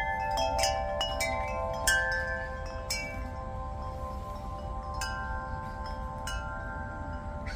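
Chimes ringing, struck at irregular intervals about eight times, each bright note ringing on and overlapping the others.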